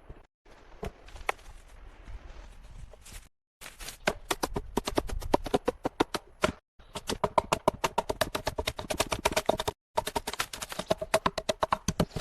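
Rapid runs of sharp knocks, several a second, with a slight ringing pitch, in short stretches cut together. This is typical of a tool striking wood in building work.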